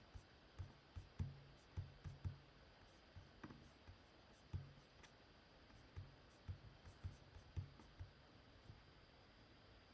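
Faint, irregular clicking of a computer mouse against a quiet room, with dull desk taps among the clicks, pausing for about the last second.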